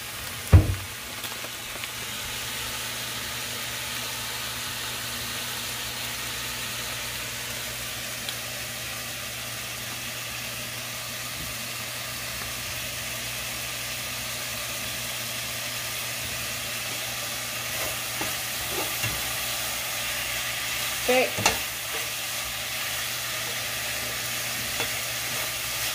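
Seasoned chicken sizzling as it browns in a pot: a steady frying hiss. There is a sharp knock about half a second in and a couple of short knocks around 21 seconds in.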